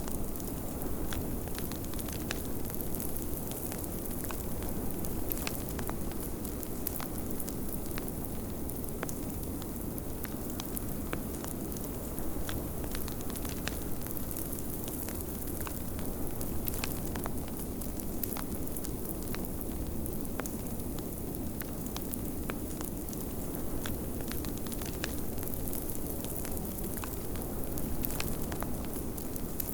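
Fireplace crackling, with frequent sharp pops, over a steady low rush of blizzard wind.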